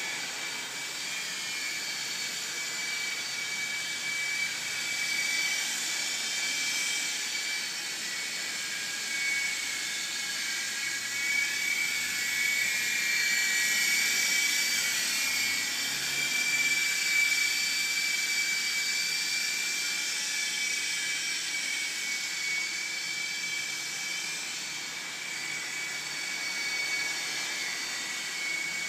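Electric motor and rotors of an S032G RC helicopter running with a high, steady whine whose pitch wavers a little, growing somewhat louder midway.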